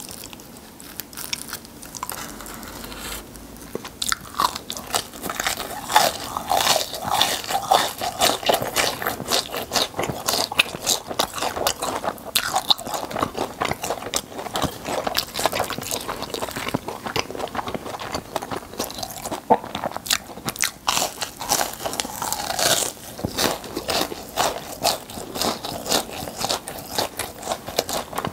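Close-miked crunching and chewing of a crisp fried churro with a cream filling: dense, irregular crackles, lighter for the first few seconds, then steady crunching throughout.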